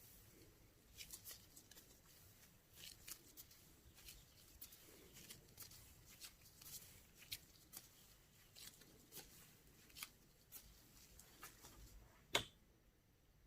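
Faint, irregular crackling and clicking from slime being squeezed and poked, with one sharper click near the end.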